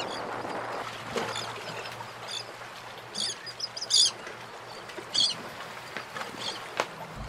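Birds chirping: a string of short, high calls at irregular intervals over a soft steady background noise, with one sharp click near the end.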